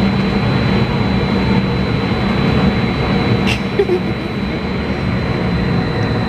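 Hurricane simulator booth's blowers running at full force: a loud, steady rush of air with a thin, constant high whine over it.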